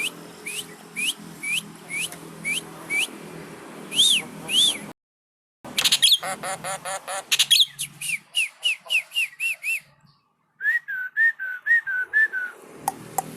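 Javan myna (jalak kebo) calling: runs of short, sharp whistled notes, about two a second, each dipping then rising in pitch, broken by two brief silences.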